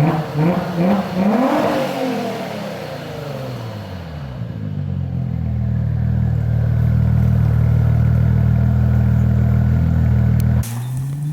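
Audi S4 B5's 2.7-litre V6 biturbo engine through a 90 mm stainless valved exhaust, revved in several quick blips that rise and fall. It then settles into a steady, loud drone for several seconds. Near the end the sound breaks off and the revs climb again.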